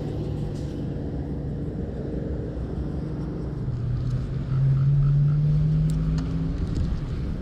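Motor vehicle engine running steadily, then rising in pitch and getting louder about four seconds in as it accelerates, easing off after about six and a half seconds.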